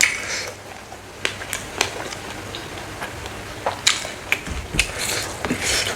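Close-miked eating of dried smoked frog: scattered sharp crunches and crackles as it is bitten and chewed, coming thicker near the end.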